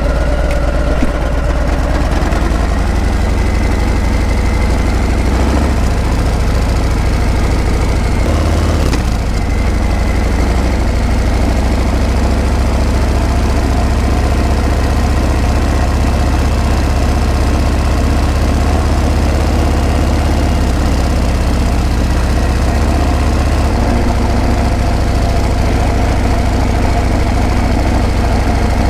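Harley-Davidson Breakout's V-twin engine running steadily through its exhaust, with a deep, even sound and a slight change in pitch about nine seconds in.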